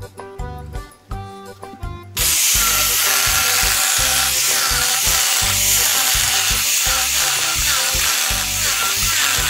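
Music with a steady beat, then about two seconds in a power tool working wood cuts in suddenly and runs on loudly as an even rushing noise, with the beat still going underneath.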